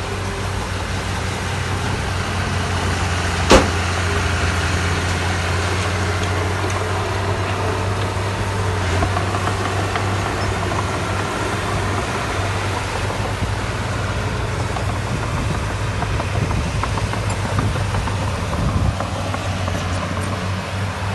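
Heavy-machinery diesel engine running steadily with a low hum, and a single sharp knock about three and a half seconds in.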